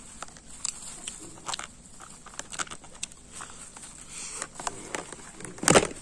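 Chewing and mouth noises of a person eating, with scattered small clicks from a fork against a plastic takeaway tray. One short, louder mouth sound comes near the end.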